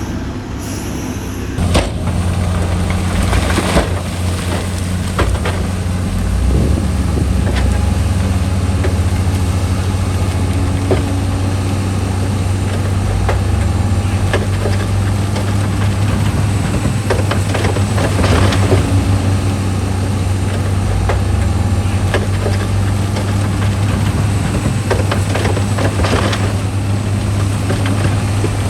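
Heavy diesel earthmoving machine running steadily with a deep, even engine hum that picks up about two seconds in, with scattered clanks and knocks over it.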